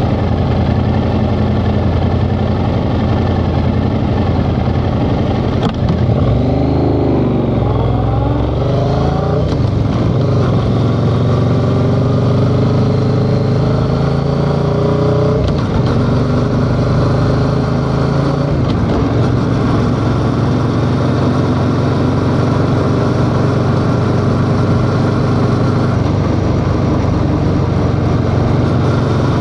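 Yamaha XSR700's 689 cc parallel-twin engine running under way. The revs dip and rise after a click about six seconds in, then climb steadily with short breaks in the pitch, as when shifting through the gears.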